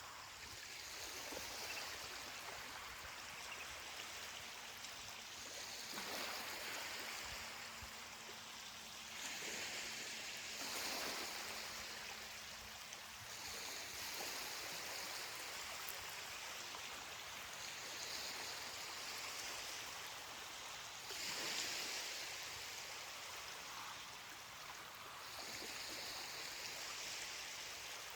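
Small ocean waves breaking and washing up a beach: a soft hiss that swells and falls away every four or five seconds.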